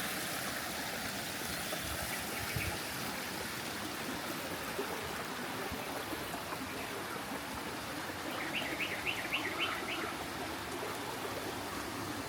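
Steady rushing of flowing water, with a bird giving a quick run of about six short chirps about two-thirds of the way through and a few fainter chirps a couple of seconds in.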